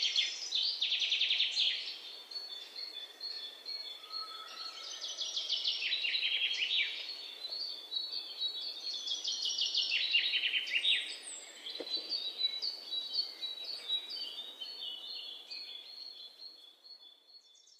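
Songbirds singing: rapid trills and chirping phrases that come every few seconds, some sliding down in pitch, then thinning out near the end.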